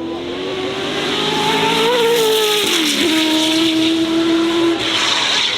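Racing car engine at high revs, its pitch climbing slowly, then falling sharply about three seconds in and holding steady.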